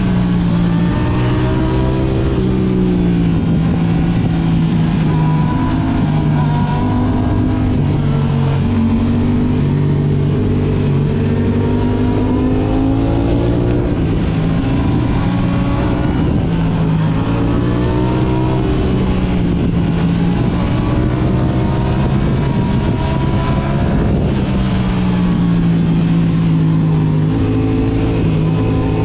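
Yamaha R6 inline-four sport bike with an Akrapovic exhaust, its revs rising and falling again and again as the rider accelerates and backs off.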